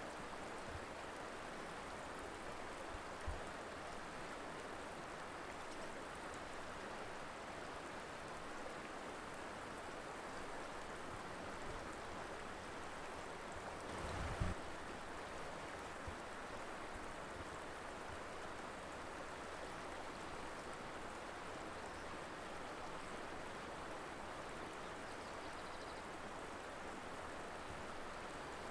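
Mountain river flowing steadily, a continuous rushing of water. A brief low thump sounds about halfway through.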